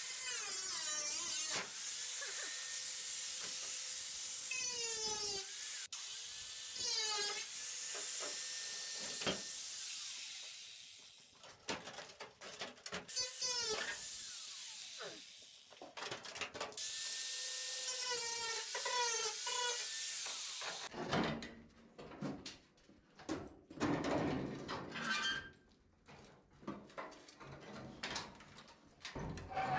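A high-speed power tool cutting into the bus's rusted sheet-metal nose panel, its whine dipping and rising as it bites and is eased off, in several long runs. About two-thirds of the way through it stops, and scattered knocks and clanks follow.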